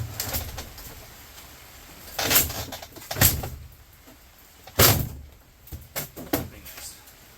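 Knocks and clanks of sheet-metal appliance parts being pried and handled during scrapping, several separate impacts, the loudest about five seconds in.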